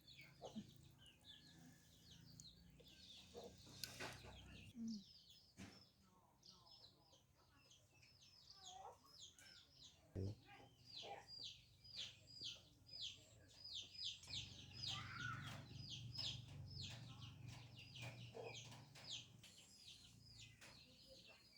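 Faint chickens peeping: many short, high, falling peeps, several a second, through the second half.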